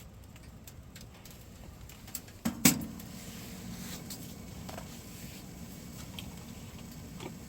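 Small wood stove fire with faint scattered crackles, and two sharp knocks about two and a half seconds in, the second the loudest, followed by a steady low rush.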